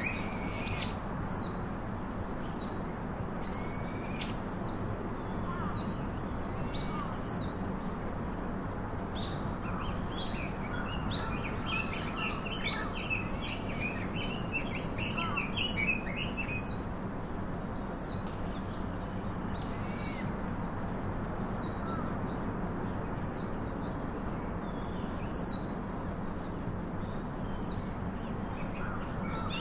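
Several birds chirping and calling in short, quick, high notes, densest around the middle, over a steady low hum.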